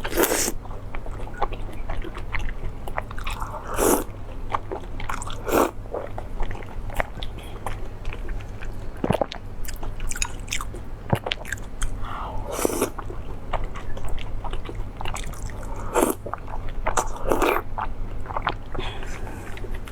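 A person eating close to the microphone: irregular bites and chewing with wet, crunchy bursts, the loudest about four seconds in and again around thirteen, sixteen and seventeen seconds.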